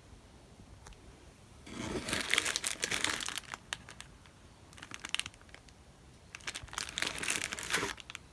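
Thin plastic wrapping crinkling in three bouts of handling, the longest in the first half, as a plastic model kit is unpacked.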